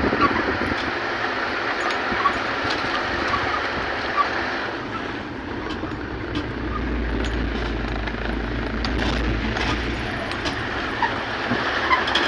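Steady rumble and hiss of a moving vehicle, with scattered small clicks and rattles. The low rumble deepens for a few seconds in the middle.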